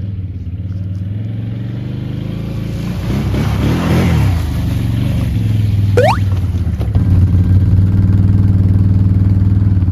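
Quad (ATV) engine running steadily, revving up about three to four seconds in and running louder and steady from about seven seconds in, as it takes up the tow. A brief rising squeal about six seconds in.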